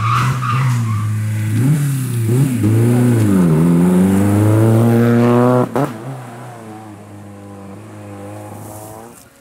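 Peugeot 106 rally car's engine revving hard through a bend: the pitch dips and climbs as the driver lifts and changes gear, then rises steadily to high revs. It cuts off abruptly about six seconds in, leaving a quieter, steady engine note.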